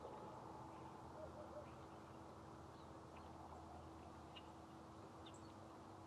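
Near silence: faint outdoor ambience with a steady low hum and a few faint, short, high chirps from distant small birds.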